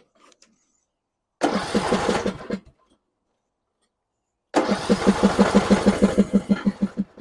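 John Deere E100 riding mower's electric starter cranking the engine twice, a short try of about a second and then a longer one of about two and a half seconds, with an even chug of about six compression strokes a second. The engine turns over but does not catch, and each try stops abruptly: the no-start fault being diagnosed.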